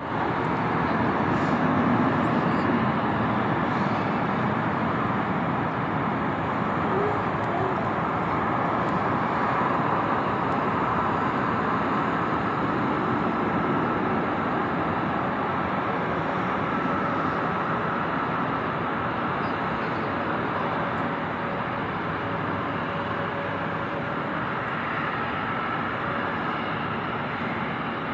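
Airbus A320neo jet noise: a steady, even rush from its Pratt & Whitney geared turbofan engines and the airflow, with a faint steady whine, easing off slightly over time.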